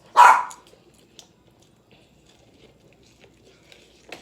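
A dog barks once, loud and sharp, near the start, followed by soft eating sounds: quiet chewing and small mouth clicks.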